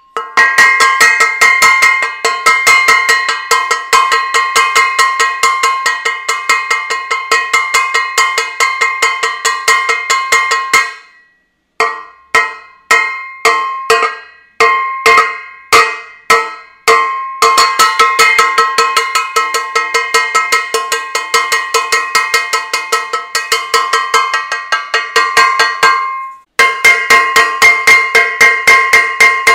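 Metal saucepan being beaten, rapid ringing clangs at about three a second, in runs with short breaks. The strikes slow and thin out for a few seconds near the middle.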